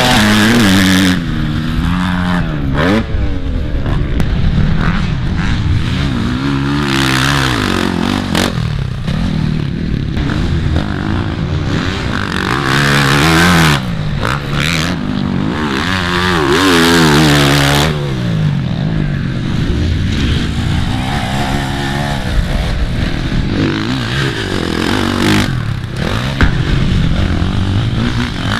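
Motocross dirt bike engines revving hard and dropping off again and again as the bikes are throttled and shifted around the track. Their pitch repeatedly climbs and falls, with more than one bike heard at times.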